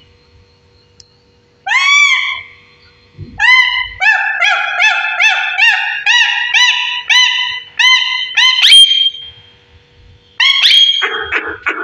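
Pet parrot calling loudly. It gives a single arched call, then a rapid run of about a dozen identical calls at a little over two a second, a sharp higher squawk, and a few more calls near the end.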